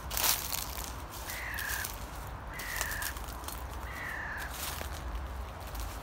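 A bird repeating a short, slightly falling whistled call about every second and a half, over footsteps crunching through dry leaves, with one louder crunch right at the start.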